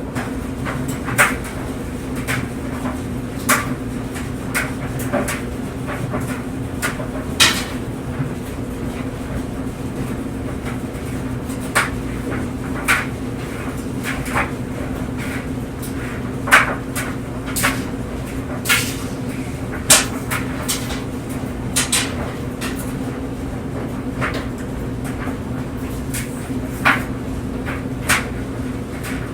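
Tumble dryer running: a steady low hum from the turning drum, with irregular knocks, roughly one every second or two, as the tumbling clothes drop against the drum.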